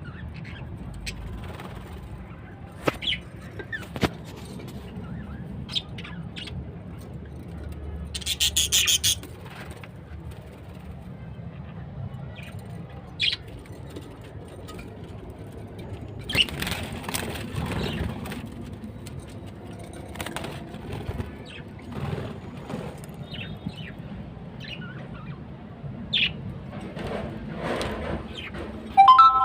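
Pet budgies chirping at scattered moments, with a brief rapid fluttering burst about nine seconds in, like wings flapping against a cage.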